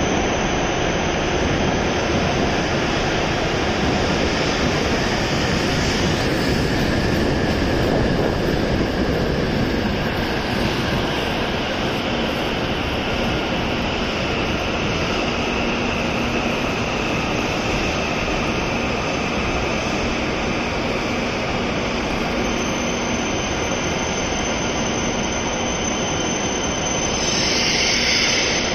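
W7 series Shinkansen train pulling in and slowing to a stop: steady rolling and air noise with a whine that falls in pitch as it slows, and a brief hiss near the end.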